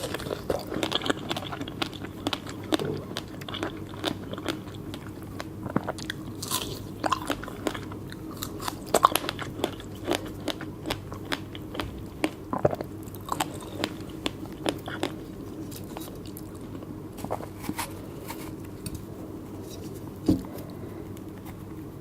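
Close-miked biting and chewing of fresh fruit: irregular wet crunches and mouth clicks, thick in the first half and sparser toward the end. One heavier knock about twenty seconds in.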